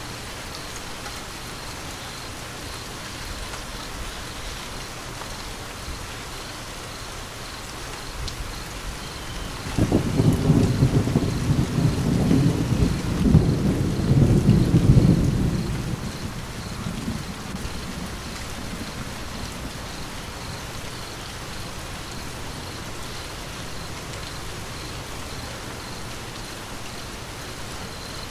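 Steady rain falling, with a roll of thunder that builds about eight seconds in, rumbles loudly low down for several seconds and fades away.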